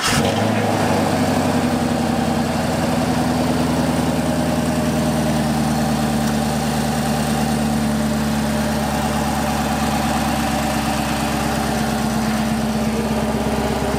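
Chevrolet Camaro 1LE's 6.2-litre LT1 V8, just started for the first time on a newly fitted LT2 intake manifold, settling about a second in and then idling steadily.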